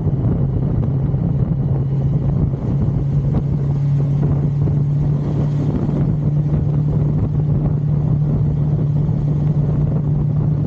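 1982 Suzuki GS550L's air-cooled inline-four engine running steadily at road speed, its pitch rising slightly about three seconds in, with wind rushing over the microphone.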